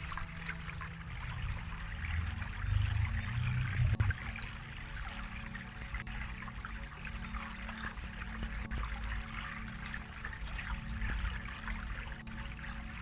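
Stream water trickling and babbling steadily over a low rumble that swells briefly a few seconds in.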